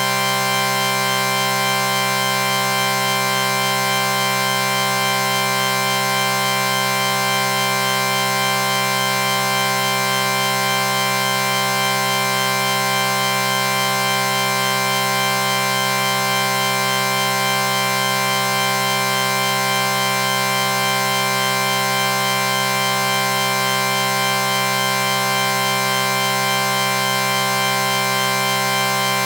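A sustained electronic chord sound effect: several steady tones held together without any change in pitch or loudness.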